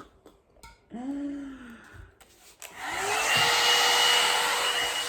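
Handheld hair dryer switched on about two and a half seconds in: its motor whine rises briefly, then runs steadily with a loud rush of air.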